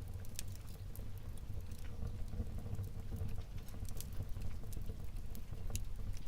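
Wood fire burning in a fireplace: a steady low rumble with irregular crackles and snaps of the burning logs.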